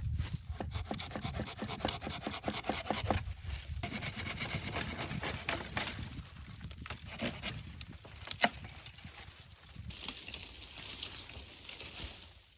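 Wood being worked by hand: quick repeated scraping and rubbing strokes, then rougher scraping, with a single sharp crack about eight and a half seconds in.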